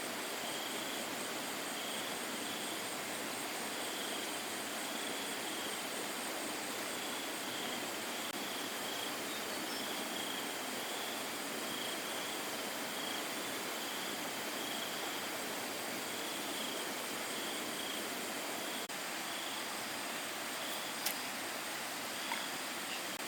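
Insects chirping in a steady pulsing rhythm over a constant rushing noise, with one sharp click near the end.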